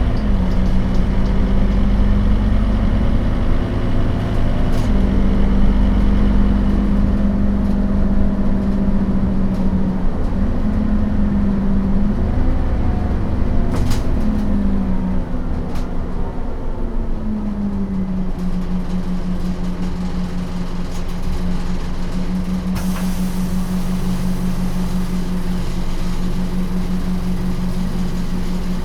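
Scania DC9 five-cylinder turbodiesel and ZF Ecomat automatic gearbox of a 2008 Scania K270UB bus running, a steady drone whose pitch shifts several times before holding steady for the last third.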